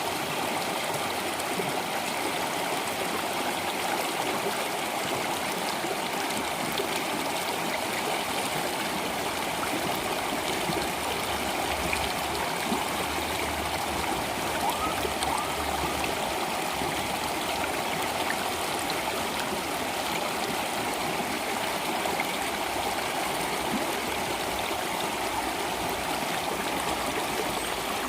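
Flowing water running steadily, an even rushing with no breaks.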